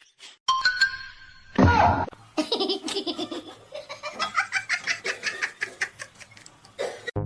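Laughter in quick, repeated bursts through most of the second half, after a brief loud sound with a falling pitch near two seconds in.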